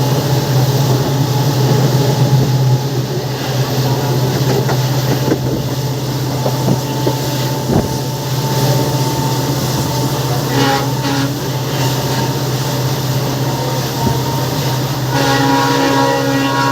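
Passenger train hauled by twin WDP4D diesel-electric locomotives running along the line: a steady low drone from the engines with some rail clatter. A multi-tone horn sounds near the end.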